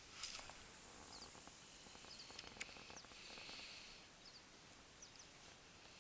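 Quiet shore ambience with faint, short, high chirps of small birds, often in pairs, every second or so. A sharp click comes just after the start and another about two and a half seconds in.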